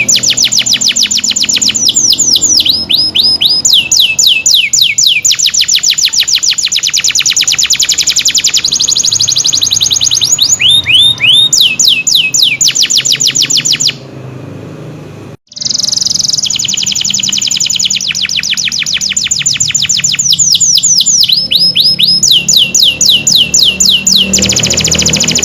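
Domestic canary singing long, rapid trills of repeated sweeping notes, breaking off briefly a little past halfway and starting again, over soft background music.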